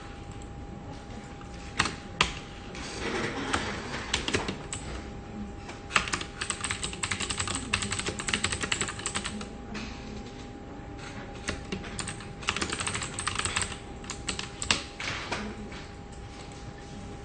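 Computer keyboard typing in irregular bursts: a few separate key strikes early on, then long fast runs of clattering keys in the middle, and some single harder strikes near the end, over a faint steady hum.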